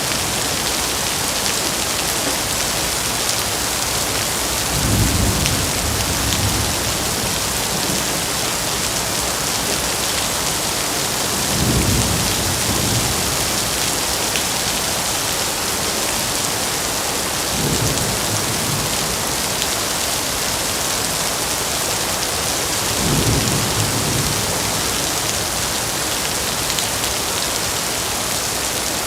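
Steady heavy rain hissing on a surface, with four short low rumbles of thunder spaced about six seconds apart.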